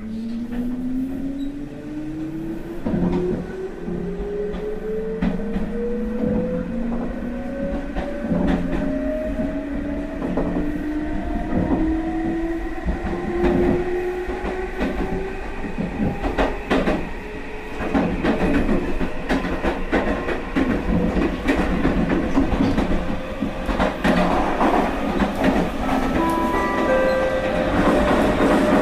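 Meitetsu 1030 series limited-express train, built on running gear reused from the 7500 series Panorama Car, heard from the car's vestibule as it picks up speed. Its motor whine rises steadily in pitch over a continuous rumble, with wheels clicking over rail joints.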